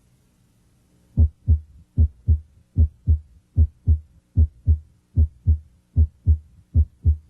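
Heart sounds heard through a stethoscope bell pressed firmly at the cardiac apex: a steady lub-dub of S1 and S2, starting about a second in, at roughly 75 beats a minute. No third heart sound is heard, because firm pressure of the bell filters it out.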